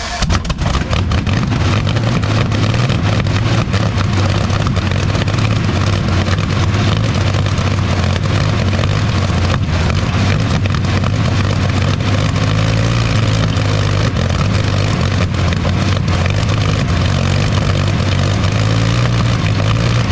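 Rolls-Royce Meteor V12 engine running loudly and steadily just after its first start, with a deep even hum. It comes up to full volume right at the start.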